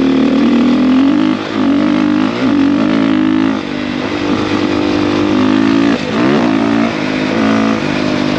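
450 dirt bike engine under way, revving up and easing off as the throttle is worked, with short dips in loudness three times between pulls.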